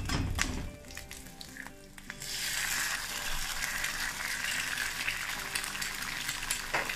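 Chorizo frying quietly in oil in a pan, then an egg hits the hot oil about two seconds in and a loud, steady sizzle takes over.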